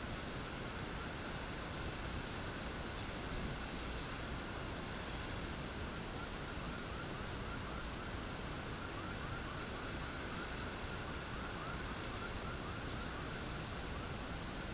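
Steady hiss of light rain falling over trees and open ground, with a high continuous trill broken by short, regular gaps and a run of quick rising chirps through the middle.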